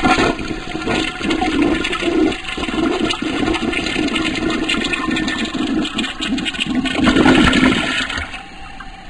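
A toilet flushing: loud rushing, gurgling water that dies away to a quieter trickle near the end.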